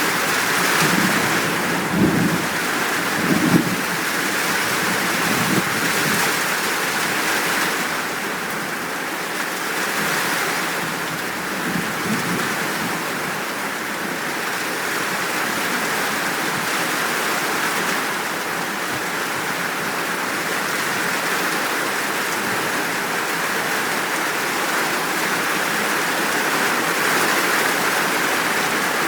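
Steady heavy rain, an even downpour hiss. A few short low thumps break through about two and three and a half seconds in, with fainter ones near twelve seconds.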